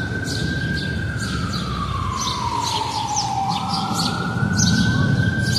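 Emergency vehicle siren in a slow wail, its pitch gliding down and then climbing back up over about four seconds, above a low rumble, with many short high chirps throughout.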